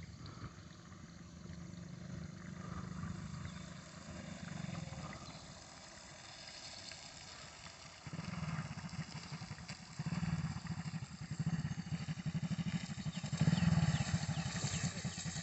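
Motorcycle engine running at low speed, its exhaust a fast even throb that gets louder and closer about halfway through.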